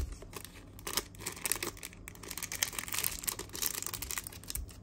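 Rustling and crinkling handling noises with many small clicks scattered through.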